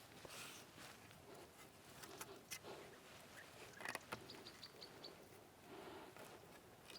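Quiet forest ambience with a few light clicks, and a small bird giving a quick run of about five short high chirps a little past the middle.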